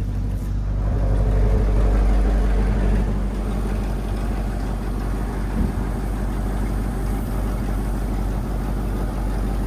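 1972 Chevrolet C50 dump truck's engine running steadily, a little louder for a couple of seconds near the start. A single short knock about five and a half seconds in.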